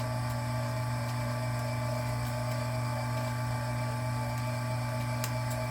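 Vevor electric wire stripping machine's motor running with a steady hum, with a faint click near the end.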